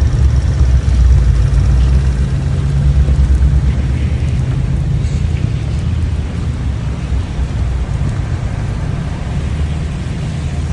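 Strong blizzard wind buffeting the microphone: a loud, irregular low rumble under a steady rushing hiss, slowly easing off.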